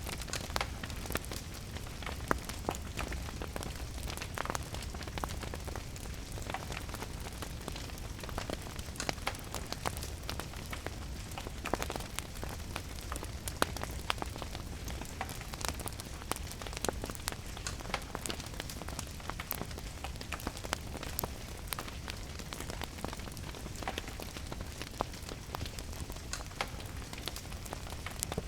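Steady rain with a wood fire crackling in a fireplace: irregular sharp pops and ticks over a constant hiss and low rumble.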